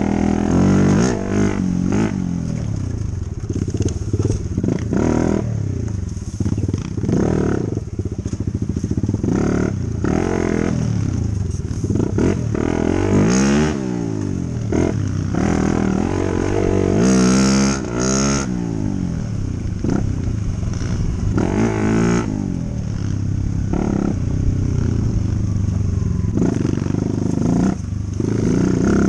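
Dirt bike engine running under way, its pitch rising and falling over and over as the throttle opens and closes and the gears change, with some clatter over rough ground.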